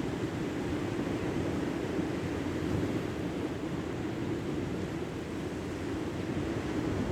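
Steady rushing noise of surf and wind at a beach, even and unbroken.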